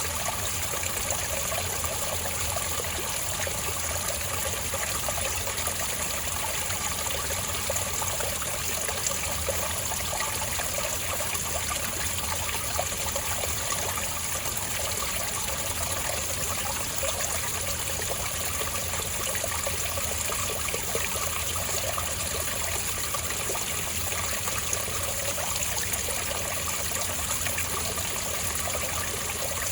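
Spring water trickling and flowing steadily, with no breaks or changes.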